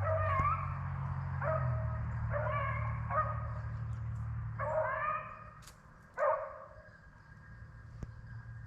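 Rabbit-hunting hounds baying on the trail of a running rabbit: a series of separate drawn-out calls, roughly one a second. They fade after about five seconds in as the pack moves off.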